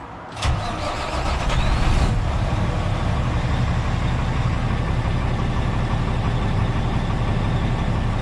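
Kenworth coal truck's diesel engine starting: it catches suddenly about half a second in, runs up briefly, then settles into a steady idle.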